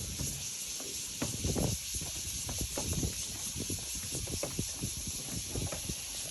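Footsteps of hikers on a forest trail: irregular low scuffs and knocks under a steady high hiss.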